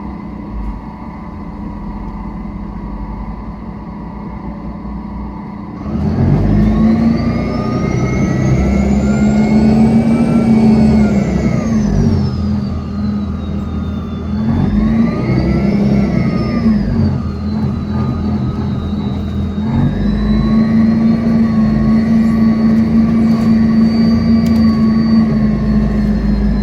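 City bus diesel engine idling steadily, then pulling away about six seconds in and accelerating through the gears. Each gear makes a surge of engine note with a high whine that rises and then falls, with breaks between them at the gear changes.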